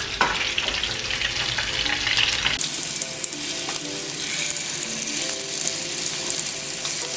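Beef meatballs browning in shallow oil in a frying pan, sizzling and crackling. The sizzle turns brighter and crisper about two and a half seconds in.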